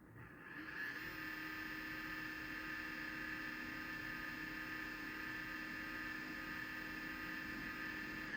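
LG dishwasher pump motor running with a steady high-pitched whine, the annoying noise the appliance makes. It comes up within the first second and winds down right at the end.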